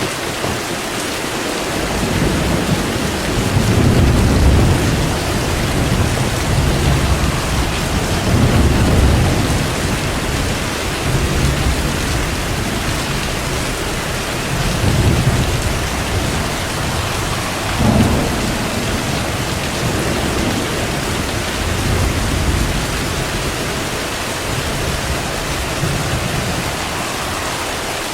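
Steady rain with thunder rumbling in long, rolling waves through most of it, and one sharper clap of thunder about two-thirds of the way in.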